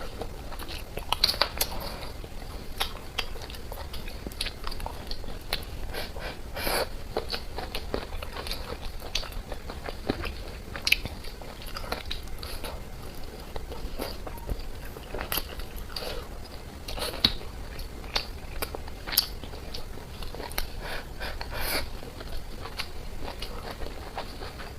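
Close-miked eating: biting and chewing food, with irregular crunches and wet mouth clicks.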